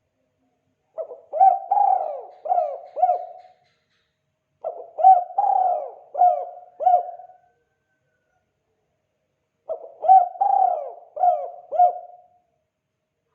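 Spotted dove (tekukur) cooing its 'kuk 2' call: three phrases of about five low coos each, a few seconds apart.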